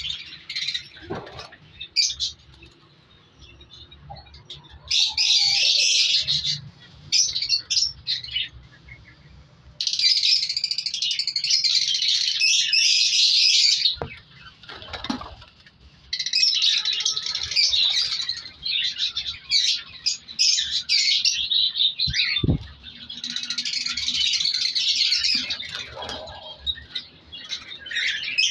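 Cockatiels chirping and squawking in loud bursts a few seconds long, with quieter gaps between them. A short low thump comes about two-thirds of the way through.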